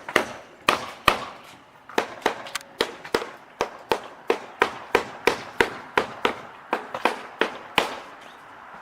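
A steady, rapid series of sharp clicks or knocks, about three a second, each ringing out briefly; it stops about a second before the end.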